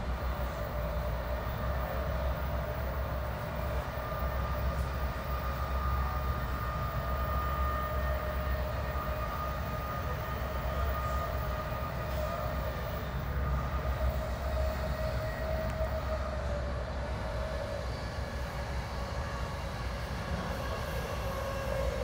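Steady rumble of a Bombardier Multi-Level commuter coach running at speed, heard from inside the car, with a steady high whine over the rumble.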